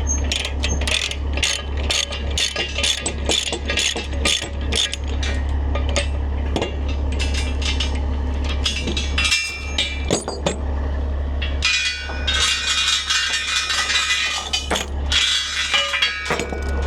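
Metal ratchet clicking rapidly, then metal clinking and rattling about twelve seconds in, over a steady low hum.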